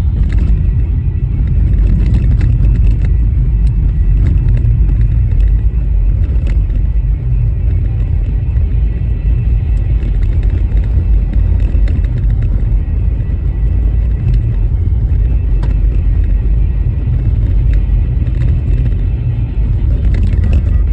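Car driving on a rough, bumpy snow-covered road: a loud, steady low rumble of tyre and road noise.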